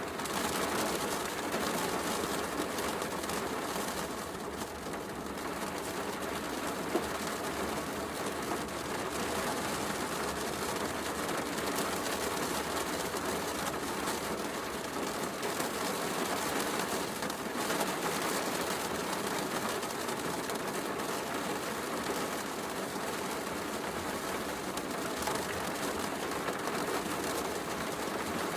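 Heavy rain falling steadily, with a fireplace crackling through it in small pops.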